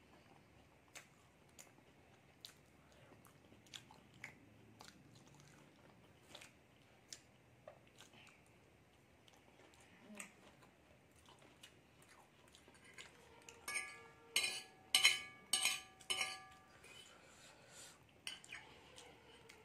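Close-miked chewing with small, sharp mouth clicks. About two-thirds of the way in, a fork clinks five or six times against a glass plate, each strike ringing briefly; these are the loudest sounds.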